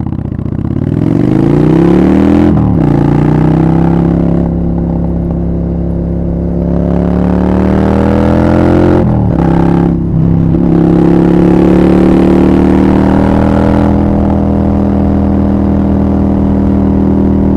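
Honda Shadow 750 V-twin running through a Black Widow aftermarket exhaust, accelerating. The engine note climbs and then drops sharply at upshifts about two and a half seconds in and again around nine and ten seconds in. It then settles into a steady, slightly rising cruise.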